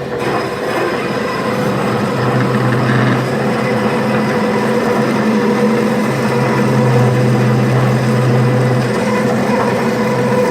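Craftsman 12-inch bandsaw, converted for metal with a gear-reduced 1/3 hp motor, running slowly with its 1/2-inch 14 TPI blade sawing into 5/8-inch mild steel: a steady mechanical drone with a constant motor hum.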